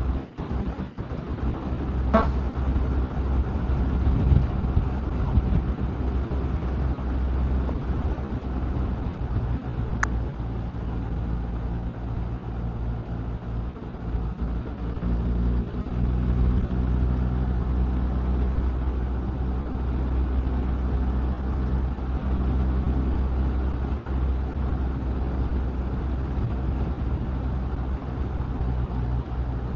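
Motorcycle cruising steadily at highway speed: a continuous low engine hum under wind and road noise.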